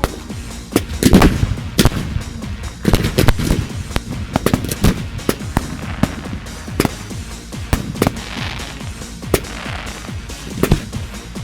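Fireworks display: a rapid, irregular string of sharp bangs from bursting aerial shells, loudest in clusters about a second in and around three seconds, with a crackling shower near the end.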